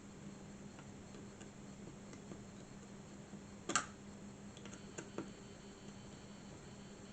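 Faint, scattered ticks and clicks of small plastic model parts and a screwdriver being handled, with one sharper click a little under four seconds in, over a steady low hum.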